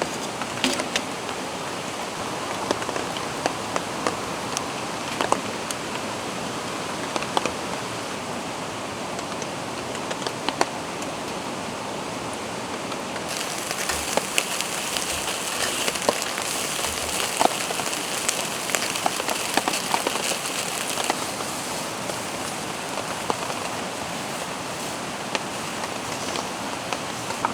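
Steady rain with many single drops ticking, over the rushing of a mountain stream. For several seconds around the middle a brighter hiss joins in.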